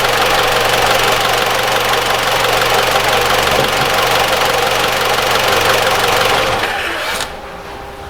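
Mitsubishi ASX 1.8 petrol engine running steadily at idle with its accessory belt drive, then cutting off about seven seconds in. At this moment it runs without the rattle that the mechanic blames on the upper idler pulley above the alternator.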